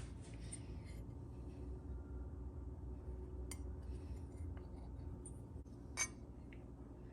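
Light clinks of small metal parts being handled, with one sharper click about six seconds in, over a steady low hum.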